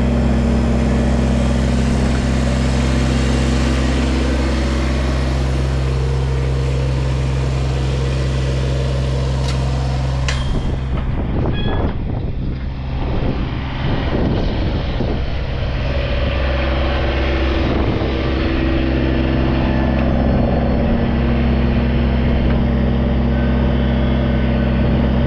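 Tractor engine running at a steady speed, with some knocks and clatter about halfway through.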